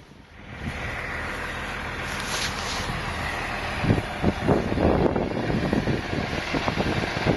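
An engine running steadily, starting just under a second in, with irregular rough crackling added from about four seconds in.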